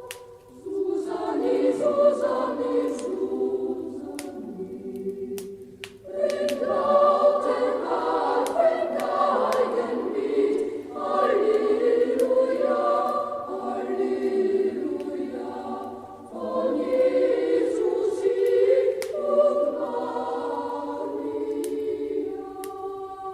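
A choir singing a Christmas song in phrases, easing off briefly about five seconds in and again near the middle. Faint crackling of a wood fire runs beneath it.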